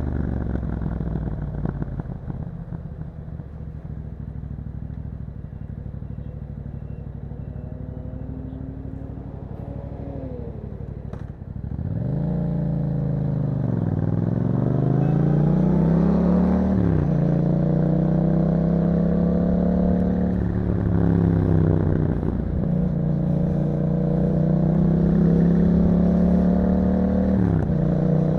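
A 2021 Yamaha MT-07's parallel-twin engine through an Akrapovic exhaust, running at low revs off the throttle. About a third of the way in it picks up and accelerates through the gears, its pitch rising and then dropping sharply at each upshift, four times.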